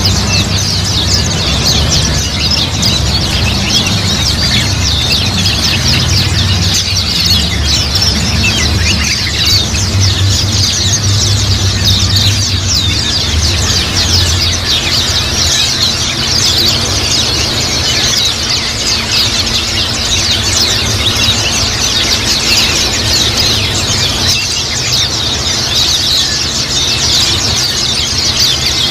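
A group of white-eyes twittering together in a dense, unbroken stream of short high chirps, with a steady low hum underneath.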